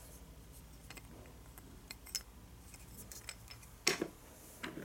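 Faint scattered clicks and taps of a small wooden toy vehicle being handled, with a sharper tap about two seconds in and another near the end.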